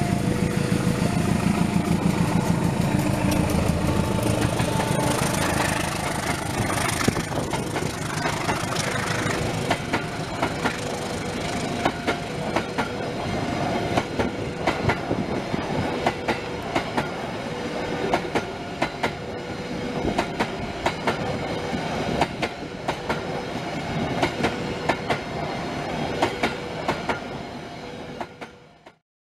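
A diesel locomotive passes close by, its engine loudest in the first few seconds, followed by a long rake of passenger coaches rolling past with a steady clickety-clack of wheels over rail joints. A two-note tone repeats faintly in the background. The sound fades out just before the end.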